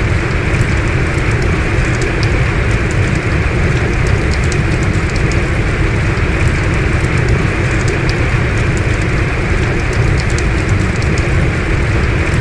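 Heavy rain falling steadily: a dense, even hiss with a low rumble underneath and scattered sharp ticks of individual drops.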